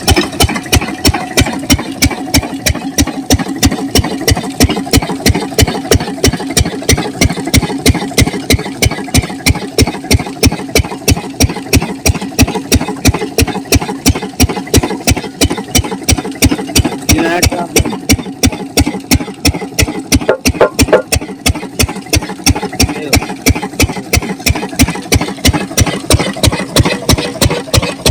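Diesel engine of an irrigation water pump set running steadily, with a slow, even chugging beat of about four firing strokes a second.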